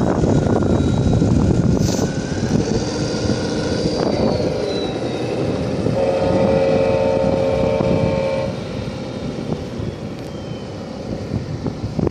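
Trucks driving, with a steady engine and road rumble and some wind on the microphone. About halfway through, a multi-tone horn sounds steadily for about two and a half seconds.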